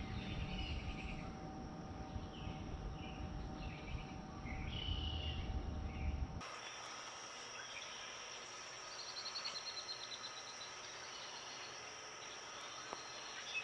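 Outdoor ambience: a low rumbling background with a few short bird chirps, then an abrupt change about six seconds in to a quieter background with a steady high insect-like drone and a brief rapid trill.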